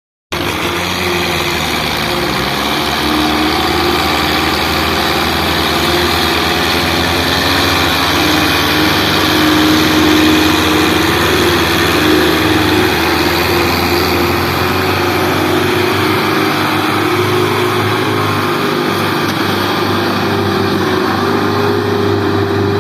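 Belarus tractor's diesel engine running steadily and loudly, its pitch holding nearly constant with small shifts.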